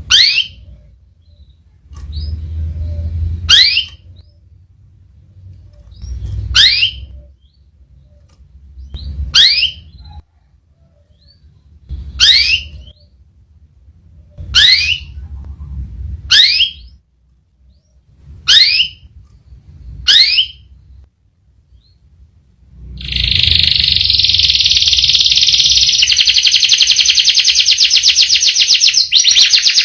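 Domestic canary giving single sharp calls every two to three seconds, each a quick downward sweep, then, a few seconds before the end, breaking into a long, fast rolling trill.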